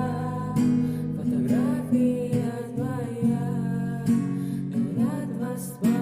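Acoustic guitar playing a song, plucked and strummed chords over steady bass notes, with a voice singing the melody over it.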